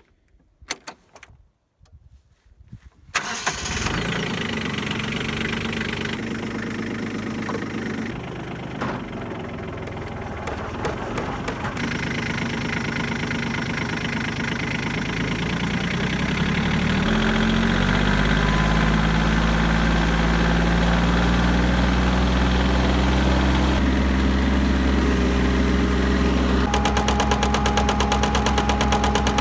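Kioti tractor's diesel engine cranking and catching a few seconds in, then running steadily. About halfway through its speed rises and holds higher, bringing the PTO-driven wood chipper up to speed.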